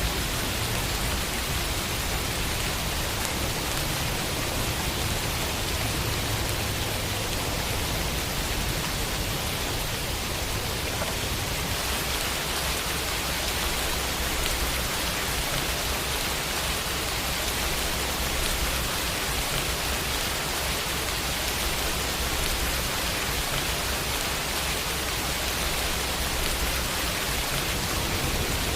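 Steady summer rainfall pattering on a window pane, an even hiss without thunder or distinct drops.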